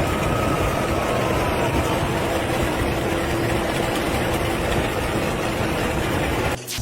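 Steady vehicle noise, a mix of engine and road rumble with a faint steady hum, that cuts off abruptly with a click near the end.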